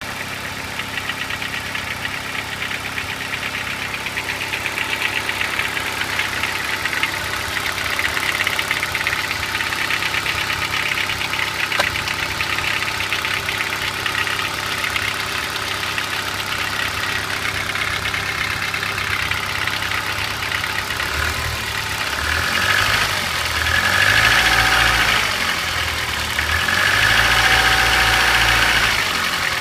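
VW 1.4 AEX inline-four petrol engine idling from a fully cold start, with a rapid ticking clatter from its hydraulic valve lifters. Near the end it is revved up and back down twice.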